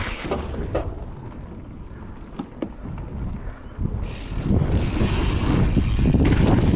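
Mountain bike rolling down a dirt downhill trail: tyres rumbling over the ground, wind buffeting the microphone, and scattered sharp clicks and rattles from the bike. It is quieter for a few seconds, then the rumble and hiss grow louder from about four seconds in.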